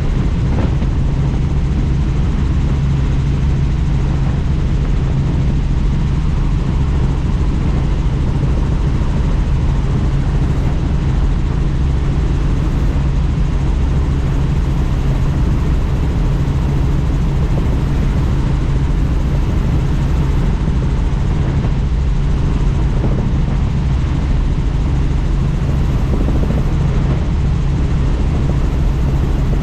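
Helicopter in flight heard from inside the doors-off cabin: steady rotor and turbine noise with a strong low hum under a rush of wind.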